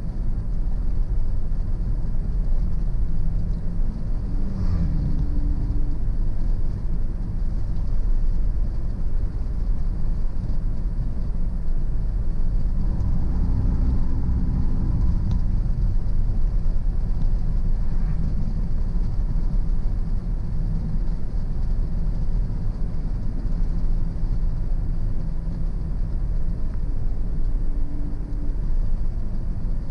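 Car driving on a country road: a steady low rumble of tyres and engine, with the engine's hum shifting in pitch a few times.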